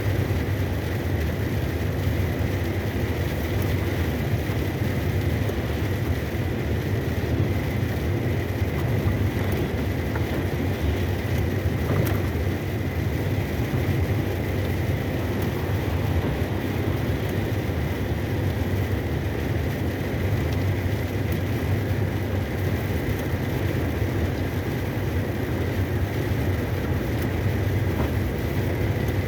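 Steady low drone of a cargo truck driving on the highway, heard from inside the cab: engine and road noise at an even level, with a faint steady high tone.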